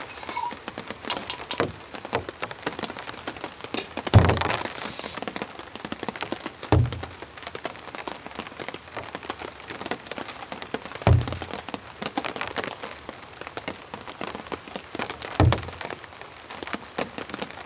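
Rain falling steadily as a dense patter of separate drops hitting close by, with four heavier thuds at uneven intervals.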